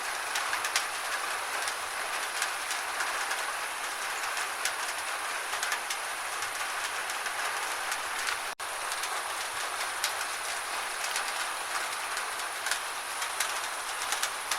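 Steady gentle rain, a fine hiss with scattered individual drops ticking irregularly. The sound cuts out for an instant just past halfway.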